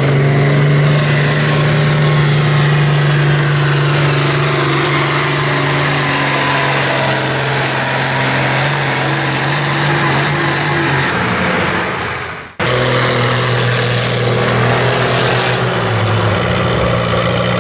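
Farm tractor's diesel engine running hard at high, steady revs during a tractor pull, with a faint high whistle above it that falls away near the end of the first stretch. The sound breaks off abruptly about twelve seconds in, and a similar hard-running engine follows, dropping slightly in pitch a few seconds later.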